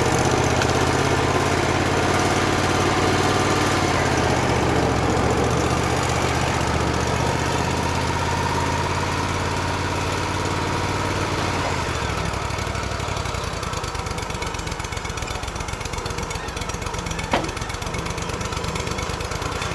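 Portable bandsaw sawmill's engine running steadily, then dropping to a lower, slower idle about twelve seconds in. A single sharp click comes near the end.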